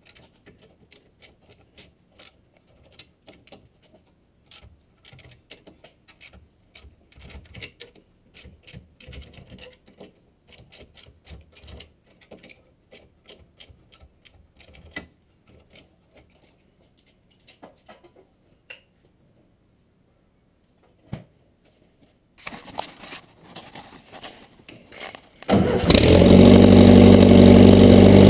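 Faint scattered clicks and ticks, then about 22 seconds in the old Ford Escort engine is cranked for a few seconds, catches near the end and runs loud and steady.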